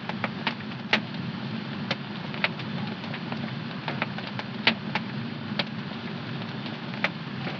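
Wood fire crackling in a home fireplace: irregular sharp pops and snaps, about two a second, over a steady low rush of burning flames.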